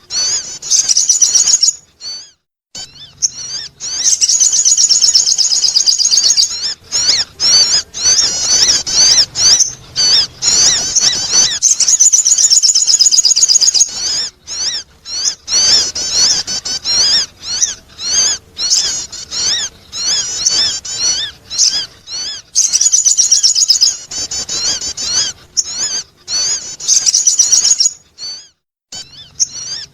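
Sogon bird calling, played as a lure: rapid, high-pitched chattering notes in loud bouts of a few seconds, broken by short pauses.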